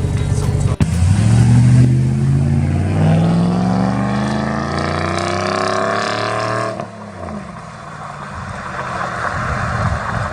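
Straight-piped GMC Sierra 1500 exhaust under hard acceleration, the engine note climbing steadily for about six seconds. The pitch then drops off suddenly into a steadier, quieter rush.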